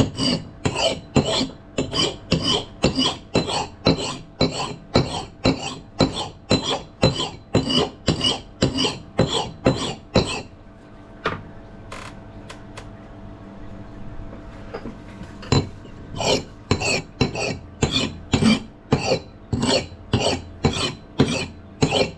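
Rusted axe blade being scraped in quick, even strokes, about two a second, each a short metallic rasp. The strokes stop for about five seconds midway, with a few light clicks, then start again.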